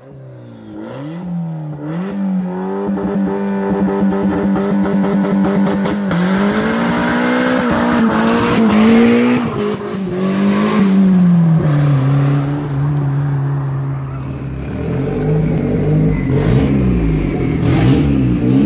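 Turbocharged Honda D16 four-cylinder engine revving up and down, with several quick blips at first and then held high revs. About twelve seconds in it drops to a lower, steady pitch, and near the end it turns rougher and lower, with short rises and falls.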